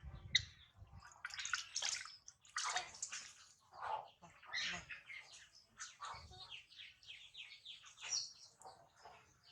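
Warm water splashing and sloshing in irregular bursts as a newborn monkey is bathed, with a few high chirping calls from the baby monkey.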